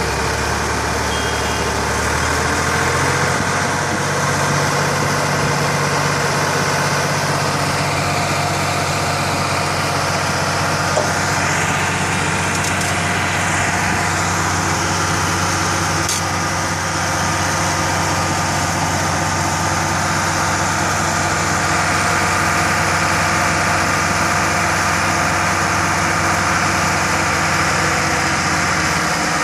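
Tractor engine running steadily, picking up speed in the first couple of seconds and then holding an even pace.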